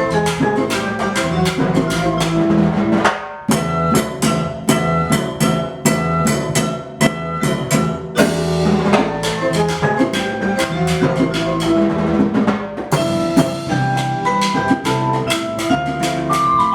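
Percussion ensemble playing: rapid drum strokes under short pitched notes, with a brief break about three seconds in.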